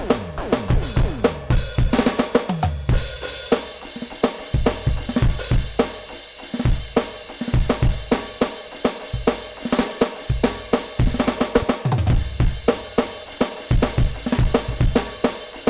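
NUX DM-8 electronic drum kit played as a continuous groove of kick, snare, hi-hat and cymbal hits. Near the start and again about two and a half seconds in there are tom strokes that fall in pitch.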